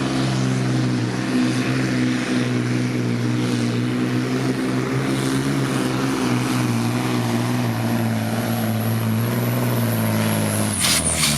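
Supersport pulling truck's engine running loud and steady under load, with a thin high whistle above the drone. Near the end come a few sharp knocks, and the engine drops away.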